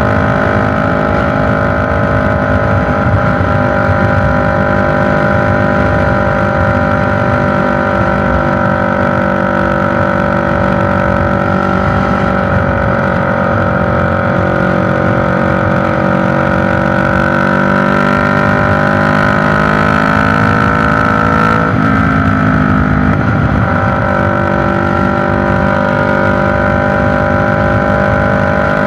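CFMoto NK400's parallel-twin engine running through a newly fitted SC Project slip-on exhaust, mostly at a steady idle. The revs rise slightly about twenty seconds in, then drop back, and are kept low because the engine is still being broken in.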